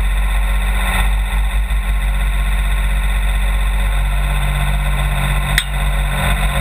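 Fire-department brush truck engine running steadily at close range, with a single sharp click about five and a half seconds in.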